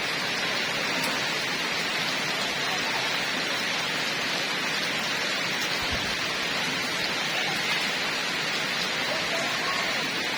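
Heavy rain falling steadily, a constant hiss with no letup.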